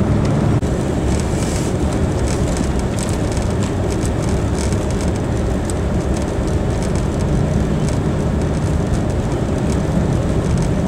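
Steady low rumbling vehicle noise. A steady hum drops out suddenly about half a second in, leaving an even rumble.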